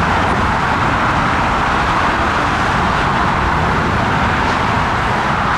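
Airbus A340-300 jet engines running: a steady, loud rushing noise that holds level without rising or falling.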